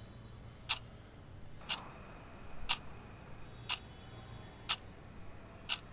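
A clock ticking, one tick a second, six ticks.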